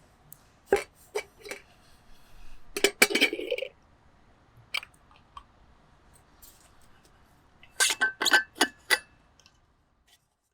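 Light metal clinks and a short clatter from handling a Trangia metal camp kettle and its wire handle. A quick run of about six clinks comes near the end.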